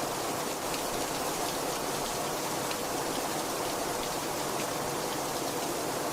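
Very heavy rain falling steadily: a dense, even hiss with scattered sharper drop ticks through it.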